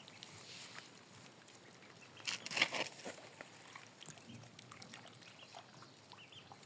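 Ducks, with a short burst of harsh quacking a little over two seconds in; otherwise only faint scattered ticks.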